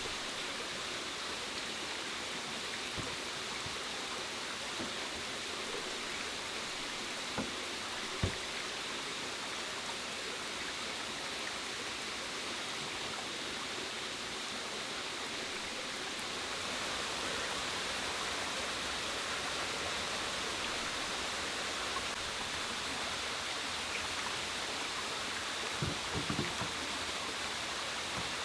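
Steady rushing outdoor ambience, like water or rain, with a faint high steady hum on top. A few faint knocks come about seven and eight seconds in, and a short cluster of them near the end.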